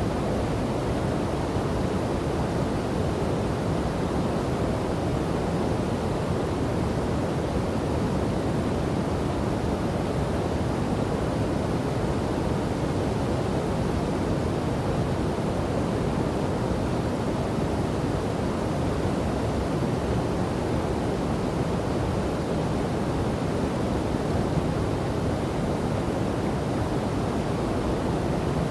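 Steady rushing of a river and waterfall, an even deep roar of falling and flowing water with no breaks.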